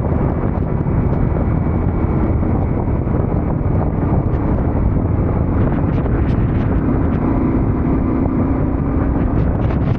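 Yamaha Ténéré 700 parallel-twin engine running under way, heavily covered by wind buffeting the microphone; the engine note stands out a little more in the later seconds.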